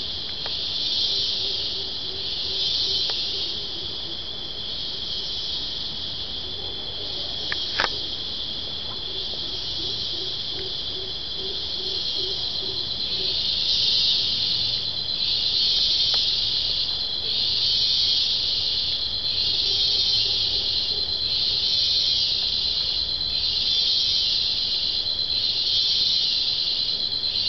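Rainforest insect chorus: a loud shrill buzzing that swells and fades about every second and a half, over a steady high whine. A lower rapid trill comes and goes several times, and there is one sharp click about eight seconds in.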